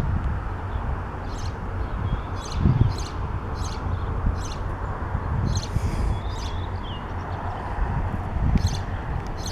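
Steady low rumble of a ChME3 shunting diesel locomotive running, with small birds chirping in short, repeated high notes over it.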